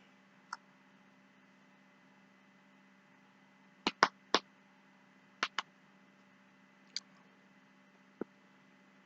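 A person eating: scattered short, sharp smacking clicks, a few in quick pairs or threes, over a faint steady hum.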